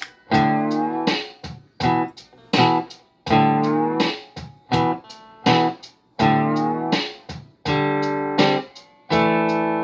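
Electric slide guitar, a Fender Stratocaster played with a slide through an Orange Micro Terror amp, playing short rhythmic chord stabs and some longer held chords, the pitch gliding slightly between notes.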